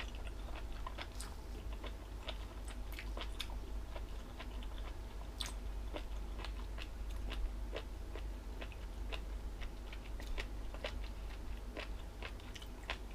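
Close-up chewing of crunchy jellyfish salad: many irregular crisp crunches and clicks as the rubbery-crisp jellyfish strips are bitten and chewed, over a low steady hum.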